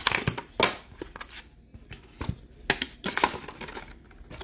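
Plastic and cardboard packaging crinkling and tearing in irregular rustles and sharp clicks as a sealed hobby box of trading cards is opened.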